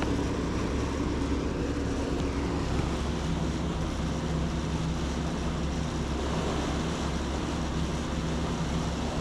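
Steady outdoor background rush with a low hum under it, holding an even level throughout.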